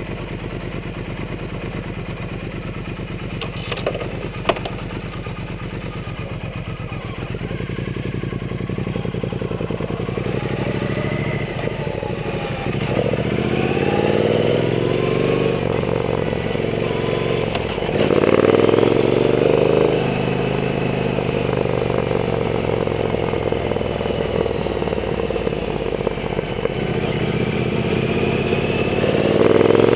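Triumph Bonneville T120's 1200 cc parallel-twin engine through a Zard aftermarket exhaust, running steadily at low revs for about the first ten seconds, with two sharp clicks about four seconds in. It then pulls away and accelerates, getting louder, its pitch rising and dropping several times as it runs through the gears.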